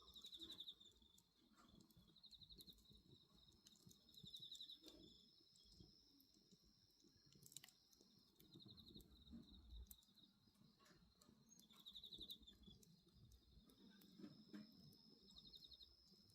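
Faint crickets chirping in short, fast-pulsed trills every couple of seconds over a steady high insect drone, with scattered small crackles and pops from a wood bonfire.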